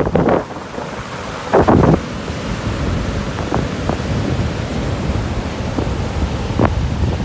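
Ocean surf rushing on a beach, with wind buffeting the microphone in a low rumble and a short louder burst about one and a half seconds in.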